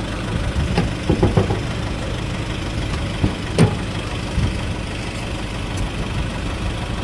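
An engine running steadily at low revs, with a few short knocks about a second in and a sharper one about three and a half seconds in.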